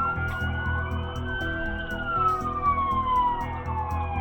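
Police car siren in a slow wail: the pitch climbs for about the first second and a half, then falls steadily through the rest, over background music.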